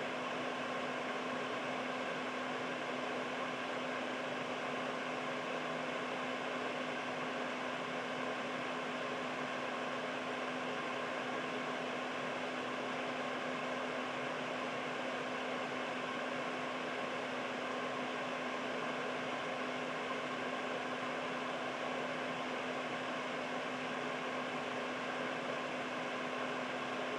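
Household air purifier running steadily, its fan giving an even rushing of air with a steady low hum.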